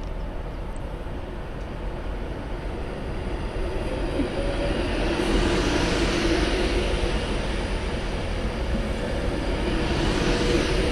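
A train running through the station; its noise grows louder about four seconds in and stays up.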